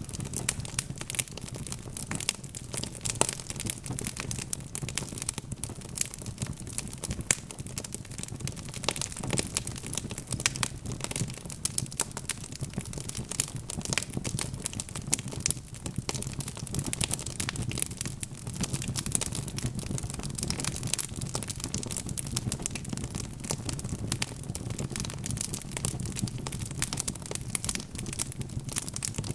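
Log fire crackling steadily, with many small irregular snaps and pops over a low, even rumble of burning wood.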